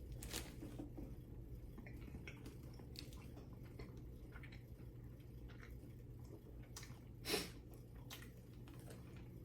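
A person chewing a mouthful of Subway sandwich with faint small mouth clicks. One louder short noise comes about seven seconds in.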